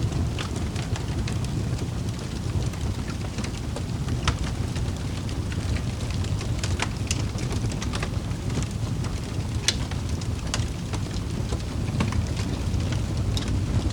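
Wood fire in a fireplace crackling: a steady low rumble of burning with sharp, irregular pops and snaps.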